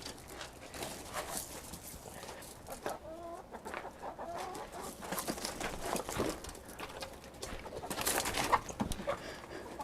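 Hens clucking in short calls, among bursts of scuffling and rustling that are loudest near the end, as a hen is chased.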